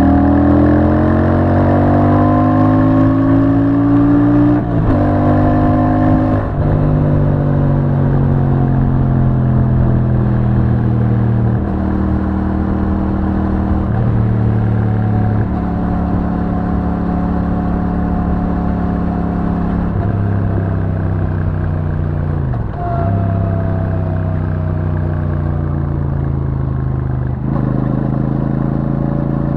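Royal Enfield Super Meteor 650's parallel-twin engine through its stock exhaust, heard on board. It accelerates with a rising note for the first few seconds, breaks off briefly twice around the gear changes, then pulls at low revs with the note slowly falling. There is another short break a little over twenty seconds in.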